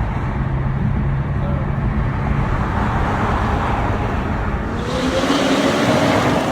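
A car engine running with a steady low rumble, then revving up about five seconds in, its pitch rising as the car accelerates.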